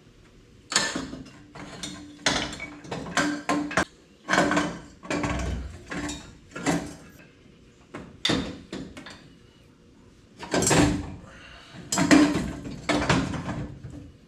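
Metal tools and parts being handled in a workshop: a run of irregular clanks, clicks and scrapes.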